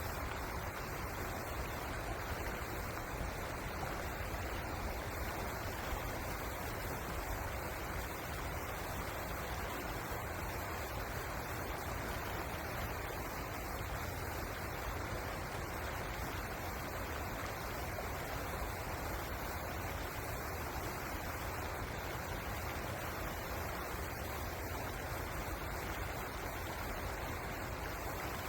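Steady rush of flowing river water, an even noise with a low rumble and no breaks.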